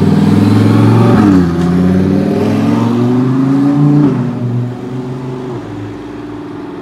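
Lamborghini Huracán's V10 engine accelerating: the pitch climbs, drops sharply at an upshift just over a second in, climbs again until about four seconds in, then falls away as the engine runs on quieter.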